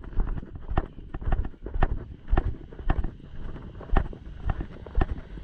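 Footsteps at a steady walking pace, about two a second, heard as low thuds close to the microphone, with some wind noise on the microphone.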